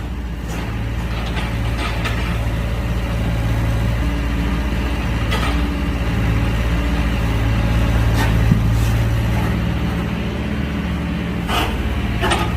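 Excavator's diesel engine running steadily, with a few light knocks about five, eight and eleven seconds in.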